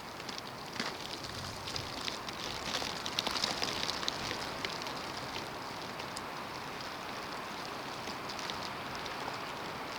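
Snowstorm: a steady hiss of blowing snow with many small ticks of snow striking surfaces, busiest about two to five seconds in.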